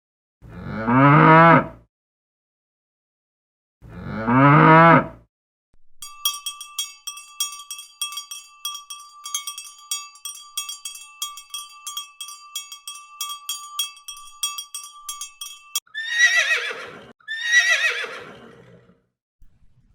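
A cow mooing twice, each moo a deep call that falls in pitch. It is followed by a cowbell clanking in a quick, even rhythm for about ten seconds. Near the end come two more shorter animal calls.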